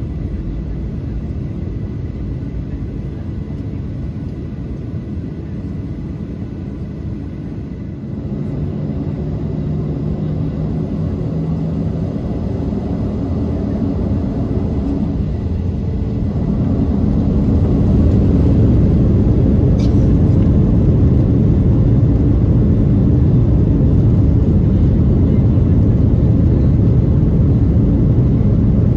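Jet engine and airflow roar inside the cabin of a Boeing 737-800 with CFM56 engines. The low rumble grows louder in two steps, about 8 seconds in and again about 17 seconds in, then holds steady. There is a brief click about 20 seconds in.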